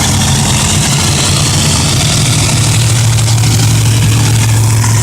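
A vehicle engine running loudly and steadily, a deep, even drone with no clear revs.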